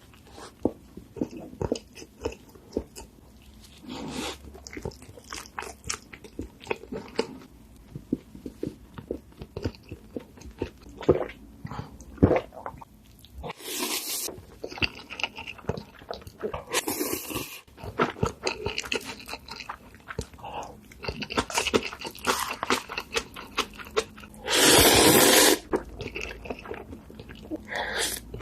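Close-miked eating: crunching bites and chewing with many small sharp clicks, and a few longer noisy bursts, the loudest about three quarters of the way through.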